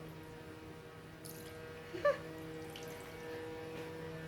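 Low steady electrical hum, with one short squeak about two seconds in.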